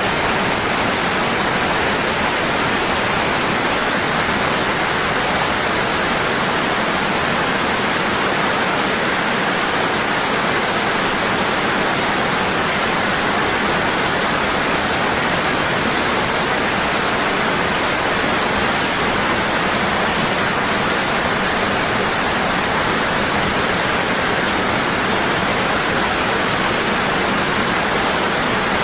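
Waterfall: water falling heavily and constantly, an even, unbroken rush.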